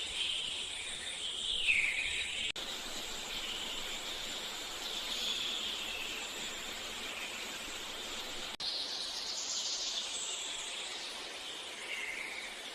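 Steady hiss of flowing river water with birds chirping, a chirp about two seconds in and more near the end. The background sound changes abruptly twice, at clean edits in the recording.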